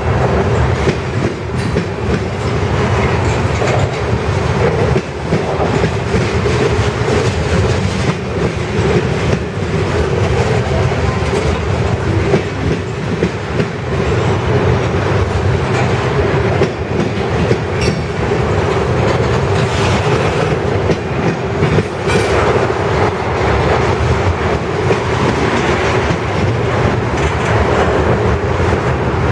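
Freight train cars rolling steadily past, the wheels clicking over rail joints in a continuous loud rumble with a faint ringing hum from the wheels.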